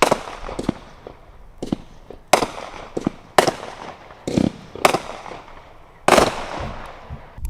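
Consumer firework cakes going off: about ten sharp bangs at irregular intervals, half a second to a second apart, each with a brief crackling tail, with a longer gap before the last one near the end.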